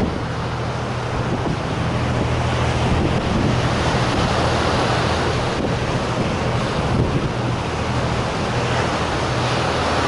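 Strong typhoon-driven wind buffeting the microphone over the steady noise of rough surf and breaking waves, with a low steady hum underneath.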